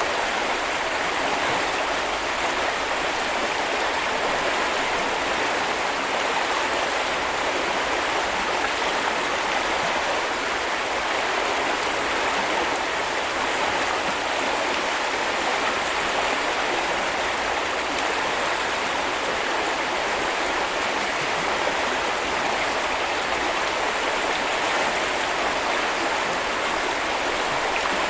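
Small river or stream flowing over stones: a steady, even rush of water.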